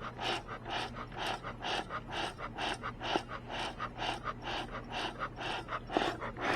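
Bee smoker bellows being pumped rapidly, puffing air through the smoker in a steady rhythm of about three puffs a second, with a steady low hum underneath.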